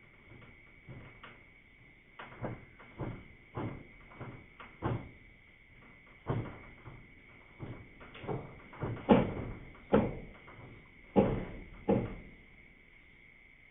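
An irregular series of sharp knocks and thuds, about twenty in all and loudest about nine and eleven seconds in, over a steady high tone.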